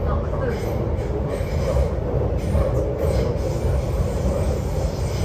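MTR Kwun Tong Line C-Train, a Chinese-built metro train, running between stations, heard from inside the car: a steady heavy rumble of wheels and running gear, with a light, regularly repeating higher sound on top.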